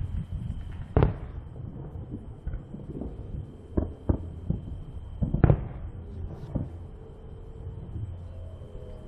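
Fireworks going off: a run of sharp bangs and booms, the biggest about a second in and about five and a half seconds in, with smaller pops between them.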